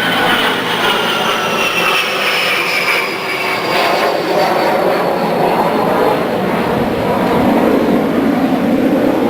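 Old Eskimo two-speed box fan with a plastic blade running on high: a loud, steady rush of air, with faint whining tones that slowly fall in pitch.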